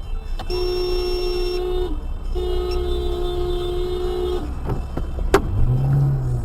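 Car horn honking twice, a blast of about a second and a half and then a longer one of about two seconds, over a steady low road and engine rumble. A sharp click follows, and a low hum rises and falls near the end.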